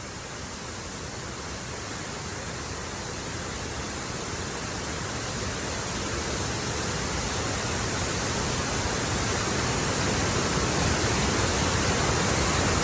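Water pouring over the Victoria Dam spillway: a steady, full rush of falling water that grows gradually louder.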